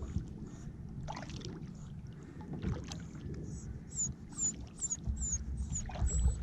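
A kayak on the water, with paddle strokes and splashing against the hull. In the second half comes a run of short, high, falling chirps, about two a second, and a low rumble builds near the end.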